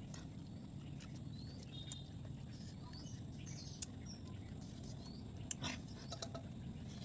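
Small birds chirping in short rising calls over a steady low outdoor background, with a few sharp clicks about halfway through and near the end.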